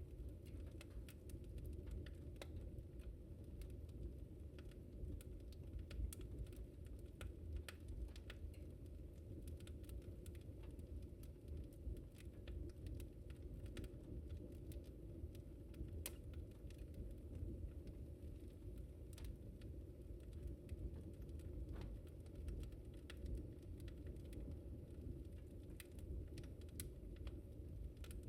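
Fire crackling in a fireplace: frequent small, irregular pops and snaps over a steady low rumble of the flames.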